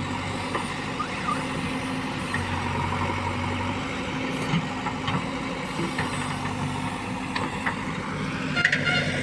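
JCB 3DX backhoe loader's diesel engine running steadily, with scattered small clicks and a brief high-pitched tone near the end.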